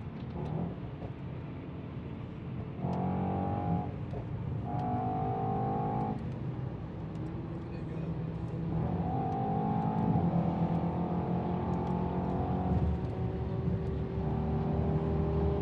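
Car engines and exhaust running on the road under a steady rumble, with the engine note swelling and holding three times.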